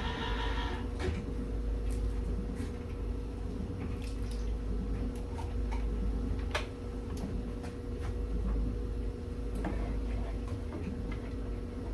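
A spoon stirring and tapping in a pot of melting Velveeta cheese, giving scattered light clicks over a steady low hum. A pitched humming stops about a second in.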